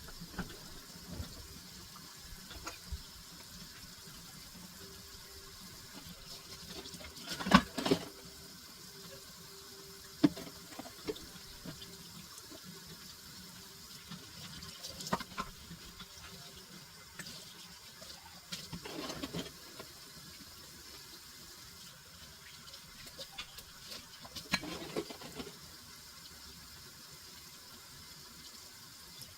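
Water running steadily from a tap into a sink, with a few knocks and clinks now and then, as of dishes or utensils being handled.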